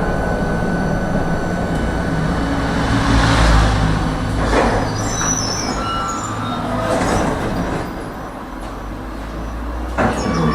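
A tram running along its rails, heard from inside the car: a steady rumble of wheels and motor, with a few short high squeals from the wheels near the middle. It gets quieter about eight seconds in.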